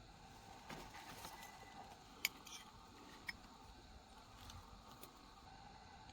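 Faint scattered clicks and light taps of tools and small metal parts being handled, with one sharp click about two seconds in and another about a second later, over a quiet background.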